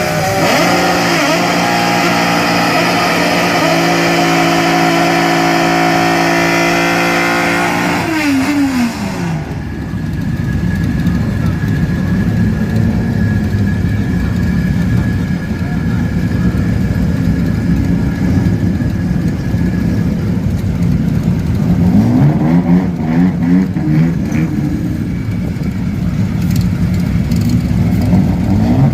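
Fully tuned naturally aspirated Nissan L-series straight-six drag cars held at high revs on the start line, then launching about eight seconds in, the engine note falling away as they pull off down the strip. More engine revving rises and falls later on.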